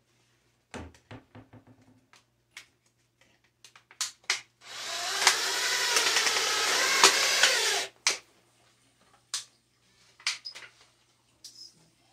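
Power drill running for about three seconds, its motor pitch wavering as it drives a screw into tin sheet, with scattered clicks and taps of handling before and after.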